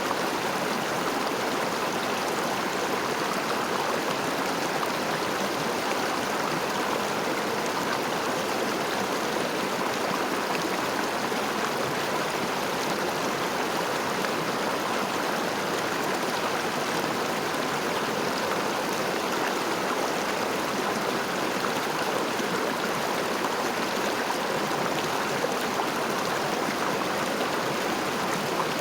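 River water running steadily over stones, an even rushing flow with no breaks.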